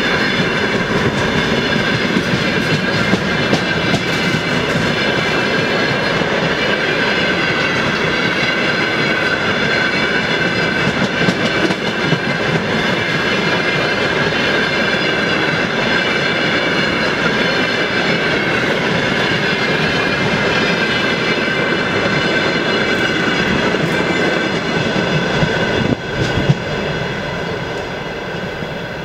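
Freight wagons of a maintenance train rolling past at close range, wheels clattering over the rails with a steady high-pitched whine above the noise. A few seconds before the end the sound drops suddenly and goes on quieter.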